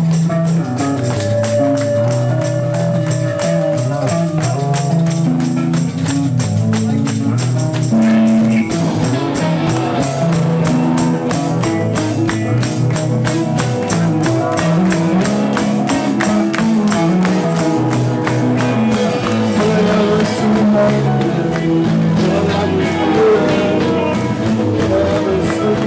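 A live rock band playing an instrumental passage: guitar and bass notes over a steady, fast beat of percussion.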